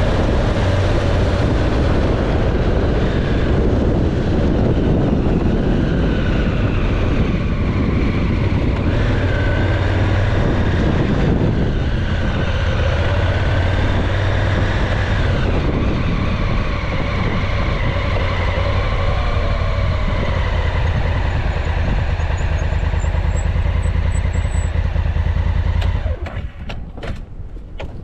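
Motorcycle under way: engine running under a heavy rush of noise, its pitch rising and falling with the throttle. Near the end the sound drops suddenly to a quieter, gusty flutter.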